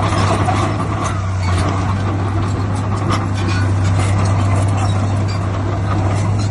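Heavy diesel engine of earthmoving machinery running steadily with a low drone, with a few short clanks over it.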